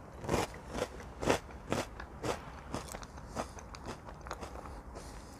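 A person chewing a mouthful of French Toast Crunch cereal, with light, crisp crunches about twice a second that grow fainter in the second half.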